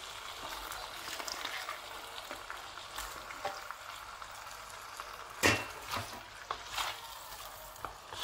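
Raw chicken pieces sizzling in hot oil in a non-stick wok with shallots and spices, as more pieces go in. A few sharp knocks cut through the sizzle; the loudest is about five and a half seconds in.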